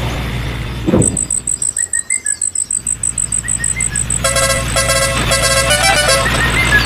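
A small vehicle engine running steadily, with a knock about a second in, then a rapid high-pitched pulsing chirp and a run of short horn toots over it.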